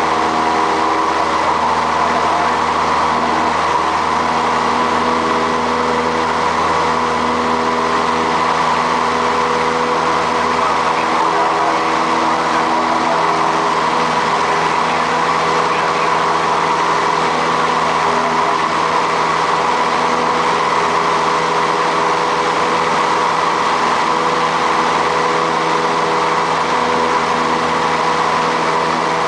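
Light propeller airplane's piston engine running at a steady drone, with even tones over a constant rush of propeller and air noise.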